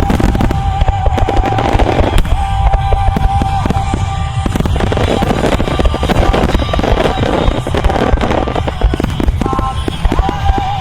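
Rapid barrage of firework shells bursting in quick succession with crackling, heard over loud music from a music-synchronised starmine display.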